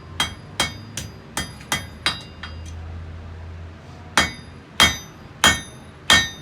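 Blacksmith's hammer striking metal on an anvil, each blow ringing. A quick run of lighter strikes, a short pause about two and a half seconds in, then four louder, slower blows.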